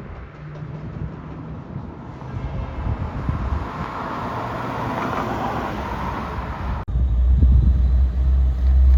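2008 Nissan 350Z's 3.5-litre V6 idling through its Nismo exhaust with a steady low hum. About seven seconds in, the sound cuts and becomes a much louder, deep low rumble.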